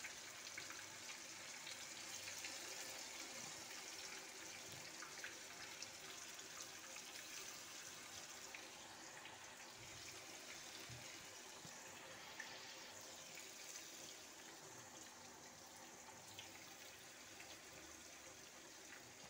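Marinated chicken pieces frying in hot coconut oil in a pan: a faint, steady sizzle with scattered small crackles, slowly growing fainter.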